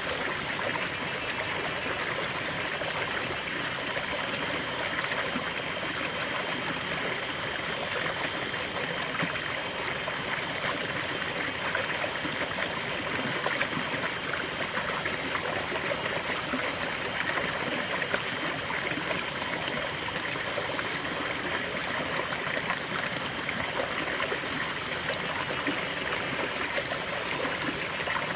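A small forest waterfall and stream flowing steadily, water splashing and trickling over rocks in an even rush.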